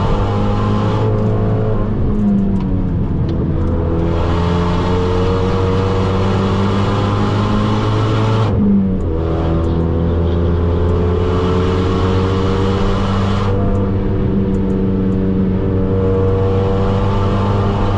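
Turbocharged 2.0-litre four-cylinder of a tuned Renault Mégane R.S. 265, heard from inside the cabin under hard acceleration. Its pitch climbs, breaks and drops at an upshift about halfway through, then climbs again before easing off, over a steady road drone.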